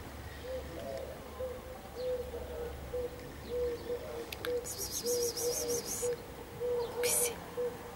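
A bird calling: a steady run of short, low hooting notes, about two or three a second. A high chirring trill comes in about five seconds in, and there is a brief high hiss near the end.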